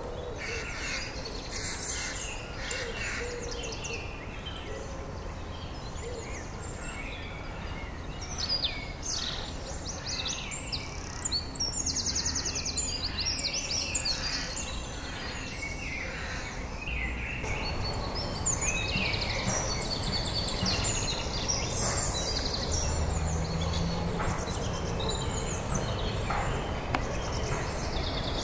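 Songbirds singing and calling: many short chirps and trills over a steady background hiss, which changes abruptly a little past halfway.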